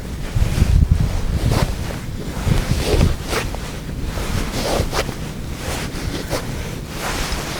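Wind buffeting the microphone in a gusty low rumble, with short scratchy handling sounds scattered through it.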